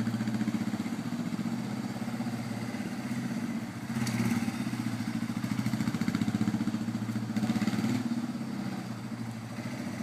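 Motorcycle engine running at low revs while the bike is ridden slowly in circles, its note swelling about four seconds in and easing off near the end.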